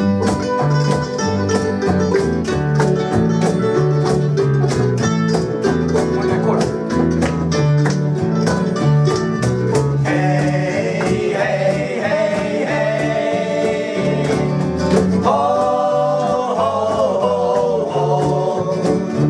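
Live acoustic string-band music: strummed guitar with a steady beat, and a higher melody line joining about halfway through.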